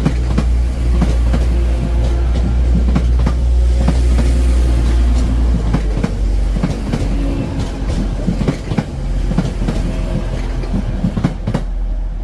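A train moving through the station, its wheels clattering over rail joints in a run of sharp clicks over a low, steady rumble.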